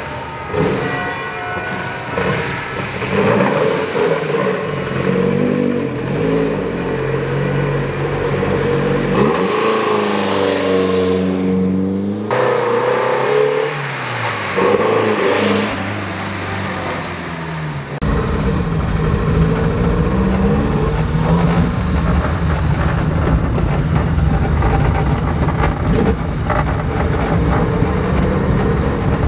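1959 Alfa Romeo Giulietta Sprint Zagato's twin-cam four-cylinder engine revving as the car drives off and passes, its pitch rising and falling. About eighteen seconds in the sound changes abruptly to a steady low drone of the engine heard from inside the cabin while driving.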